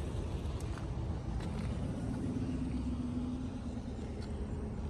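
Low, steady rumble of a car's engine running, with a steady hum that comes in about two seconds in and fades about a second and a half later.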